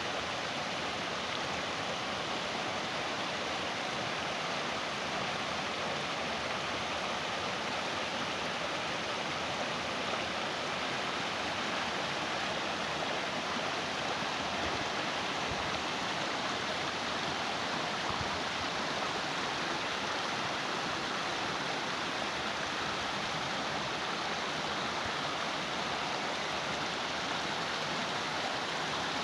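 Flowing water of a small stream running steadily, a constant even rush with no break.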